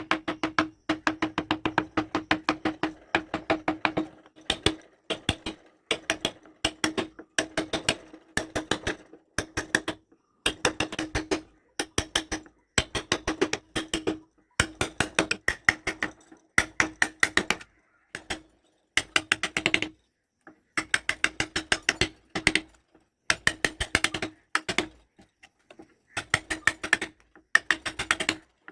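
Hand carving tool cutting into teak wood: quick runs of sharp clicks, several a second, with brief pauses between runs.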